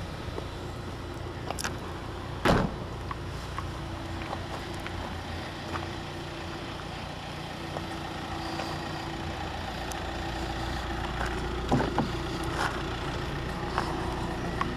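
Steady low hum of a car, with a few sharp knocks; the loudest comes about two and a half seconds in.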